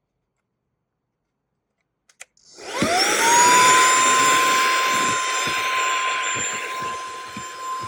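SERVOMASTER cordless handheld vacuum cleaner switched on with a click about two seconds in. Its motor spins up with a rising whine and then runs steadily, a high whine over the rush of air.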